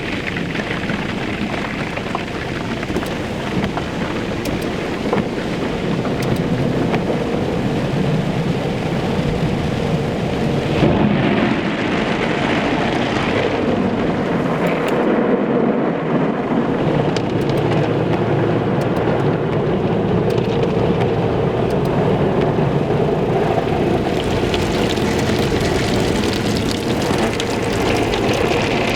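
Automatic car wash running: water spraying and drumming on a car's body over a steady low rumble, the spray shifting about eleven seconds in and again near the end.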